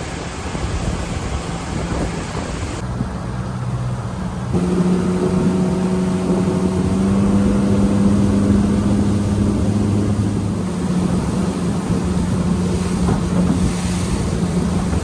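Small boat's outboard motor running under way, with wind and water noise; it gets louder about four or five seconds in.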